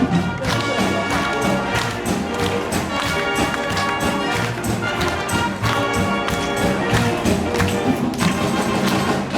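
Concert wind band playing, with brass in front over a steady drum beat.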